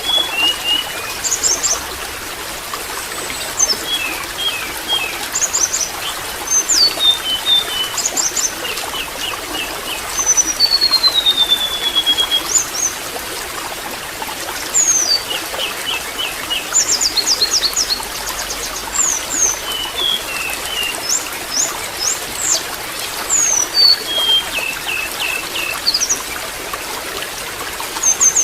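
Water trickling steadily, with small birds chirping and whistling over it in quick short notes and trills, including one long falling whistle about ten seconds in.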